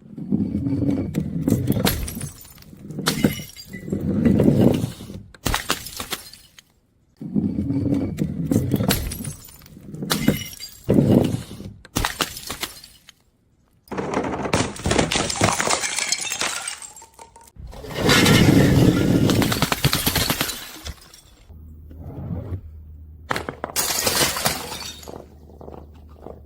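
Glass crushing and shattering in a run of separate crackling bursts, each a second or two long with many sharp cracks, broken by short pauses.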